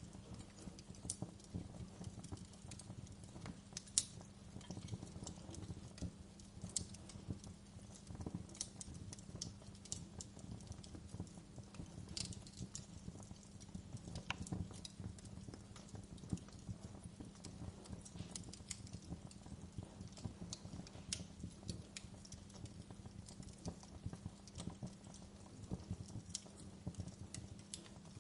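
Crackling fireplace: irregular pops and snaps over a steady low hum, with one sharper pop about four seconds in.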